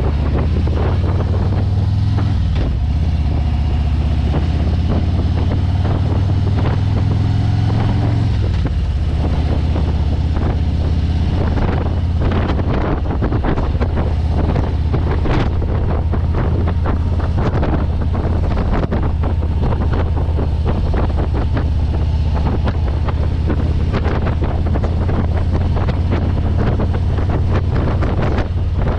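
Motorcycle engine running at riding speed under heavy wind buffeting on the microphone; the engine note shifts about eight seconds in, and the wind gusts grow stronger after that.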